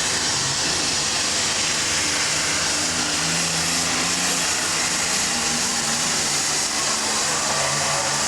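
Diesel super stock pulling tractor running at full power, a loud, steady engine sound that holds without a break.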